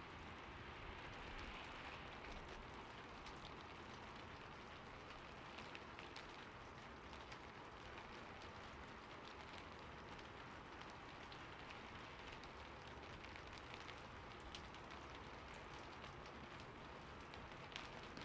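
Steady rain falling on a roof: an even, quiet hiss with scattered sharper drop hits.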